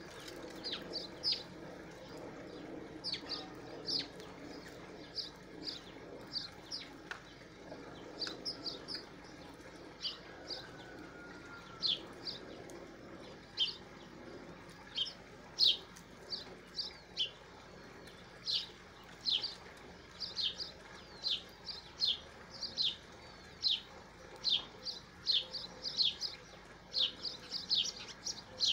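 Small birds chirping: short, sharp, high chirps repeated irregularly in quick clusters, coming thicker toward the end.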